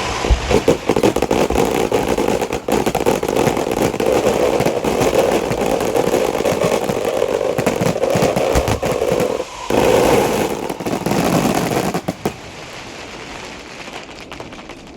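A long string of firecrackers going off in a dense, rapid crackle of many cracks, easing off to a thinner crackle about twelve seconds in.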